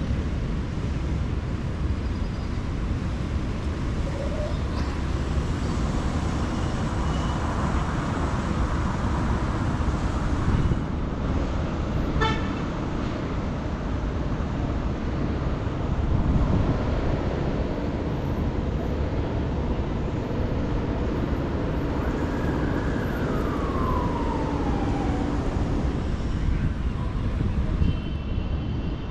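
City street traffic: a steady mass of engine and tyre noise with vehicle horns tooting. About three quarters of the way through, a single falling tone glides down.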